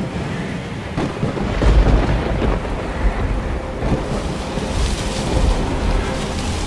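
Thunderstorm: steady rain with thunder rumbling, loudest about two seconds in and again about five seconds in.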